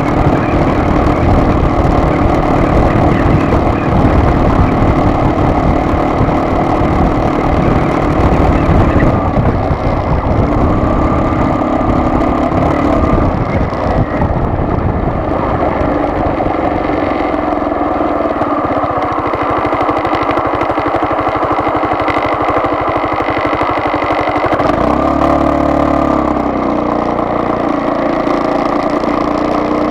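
A vehicle's engine running with steady road rumble throughout. The engine note shifts in pitch about a third of the way in and again near the end, as the vehicle changes speed.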